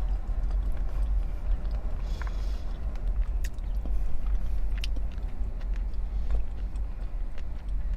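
A person chewing sushi close to the microphone, with small wet clicks from the mouth, over a steady low rumble.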